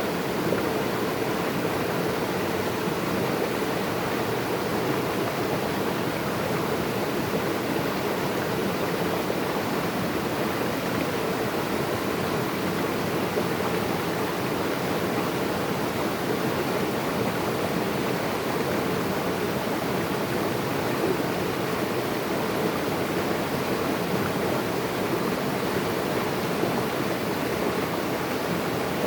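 Flowing water rushing steadily, a dense even wash of noise with no change in strength.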